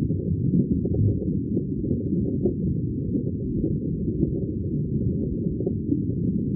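Underwater ambience: a steady, muffled low rumble of water with bubbling, all of it deep in pitch with nothing high.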